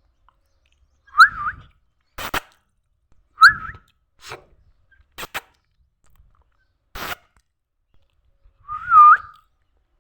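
Three short, loud whistles, each gliding up, dipping and rising again, about a second in, three and a half seconds in and near the end, with a few sharp clicks in between.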